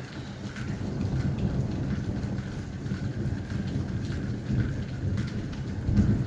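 Thunder rumbling over steady rain, swelling about a second in and loudest near the end, with scattered drops pattering on surfaces.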